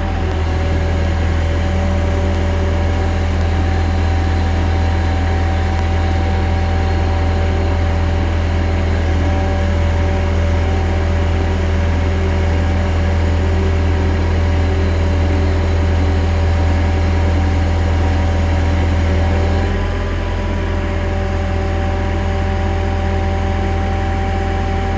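Loud engine running steadily at a constant speed, with a few steady higher tones over its hum. The note eases slightly about twenty seconds in.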